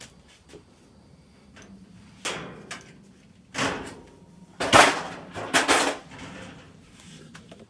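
Sheet-metal dryer cabinet parts being handled: a run of short knocks and scraping clatters, about five in all, the loudest a little under five seconds in.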